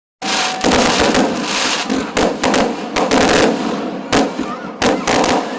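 Fireworks going off: a rapid, irregular run of loud bangs over dense crackling.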